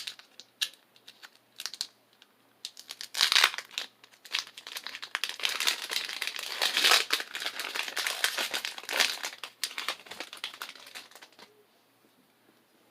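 Foil Pokémon booster pack wrapper crinkling as it is handled and opened: scattered crackles at first, a loud burst about three seconds in, then several seconds of dense crinkling that stops about a second and a half before the end.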